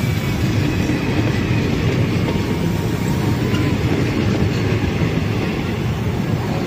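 Sealdah-Jangipur Express train running on the track, a steady, even rumble of wheels on rail.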